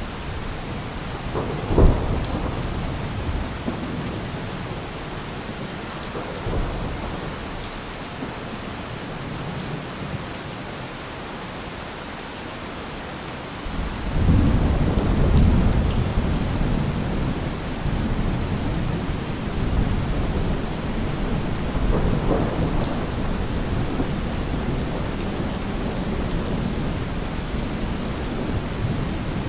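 Steady heavy rain with thunder: a sharp thunderclap about two seconds in, then a long deep rolling rumble that builds suddenly around the middle and keeps going to the end.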